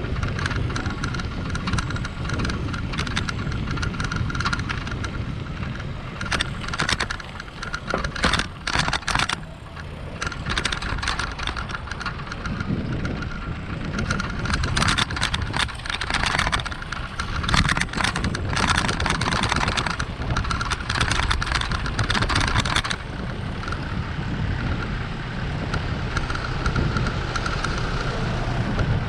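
Ride noise from a camera on a moving bicycle on a wet street: a steady low rumble of wind on the microphone and rolling tyres, broken by stretches of crackling noise from about six seconds in until a little past the middle.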